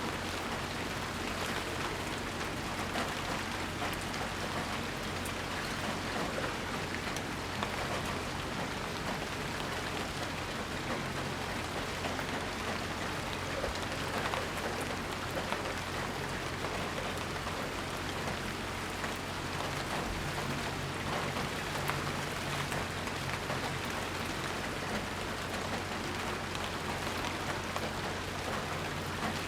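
Steady rainfall, with a dense patter of drops hitting surfaces and no thunder. A faint low hum sits beneath it.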